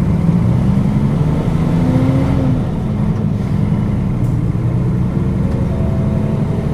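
Nissan Diesel KL-UA452KAN city bus diesel engine pulling the bus along. Its pitch climbs, drops about two and a half seconds in, then holds steady and begins to climb again near the end.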